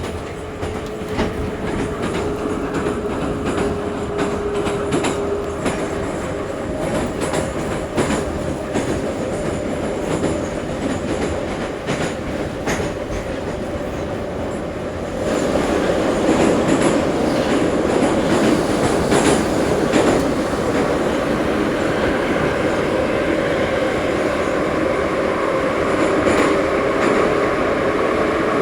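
Ezh3 metro train running between stations, heard on board: a steady rumble with a hum and repeated wheel clicks over the rail joints. About halfway through, the noise jumps suddenly louder and stays there.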